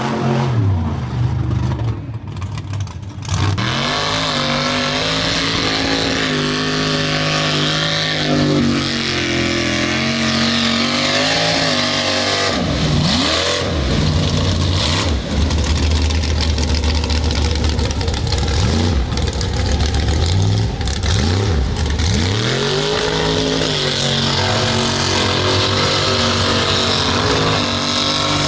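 Mud truck engine revving hard, its pitch climbing and falling again and again as the throttle is worked, with brief lifts off the throttle along the way.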